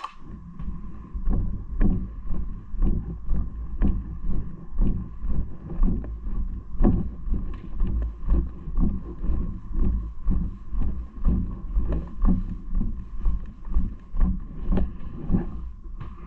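Wind rumbling on an action camera's microphone during a bike ride, pulsing in a regular low thumping about twice a second.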